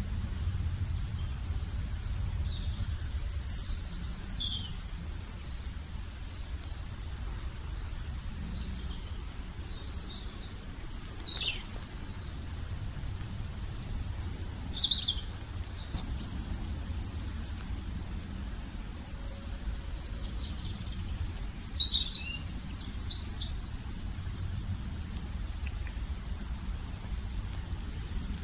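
Birds chirping and singing in short, high phrases with gaps between them, the busiest spells a few seconds in, midway and near the end, over a faint low steady rumble.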